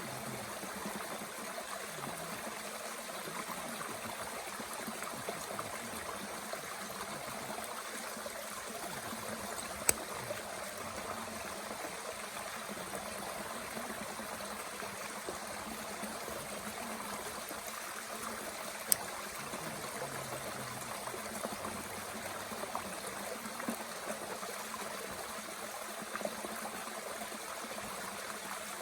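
A mountain stream runs with a steady rushing sound. A small wood fire in a Bush Box twig stove gives occasional sharp pops, the two loudest about ten seconds in and again just before twenty.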